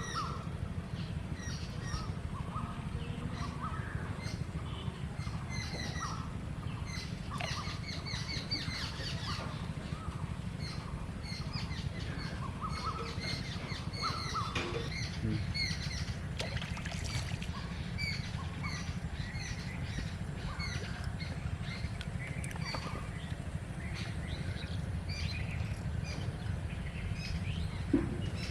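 Small birds chirping and calling over and over, several notes a second, over a steady low rumble. There is a single sharp knock near the end.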